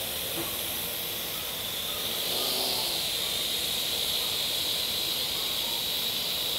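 Parrot AR.Drone quadcopters hovering, their rotors giving a steady high whirring hiss that grows a little louder about two seconds in.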